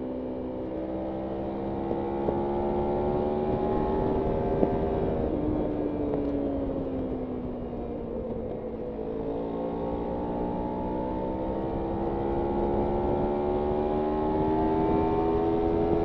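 Kawasaki Ninja 300's parallel-twin engine under way, its pitch climbing as it pulls, then falling off from about five seconds in as the rider eases off, and climbing again through the second half. Wind noise runs underneath.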